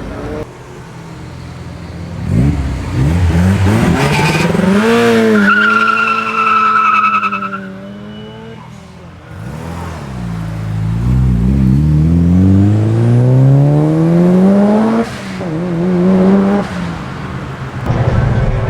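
Modified performance car engine revving hard with tyres squealing for a couple of seconds. It then accelerates with a long rising engine note, broken by a sudden drop in pitch about 15 seconds in as it changes gear, and pulls again.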